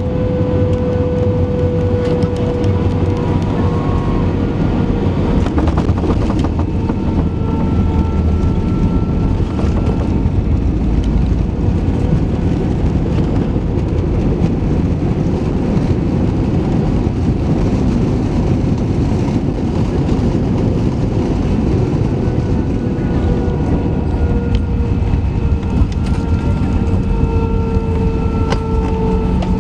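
Airbus A319 cabin noise during landing: a loud, steady rush of engine and airflow noise with a steady engine whine that drifts slightly lower in pitch.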